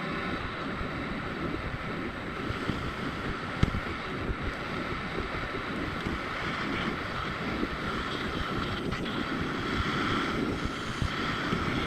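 Handheld gas torch flame burning steadily, a continuous hissing rush. It is heating a differential carrier to soften the red Loctite on the pinion shaft lock bolt.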